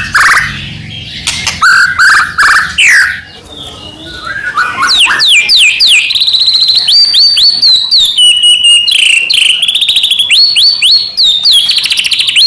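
White-rumped shama (murai batu) singing a long varied song. It starts with loud rising calls, dips briefly, then about five seconds in breaks into a dense run of fast, high repeated notes and sweeps.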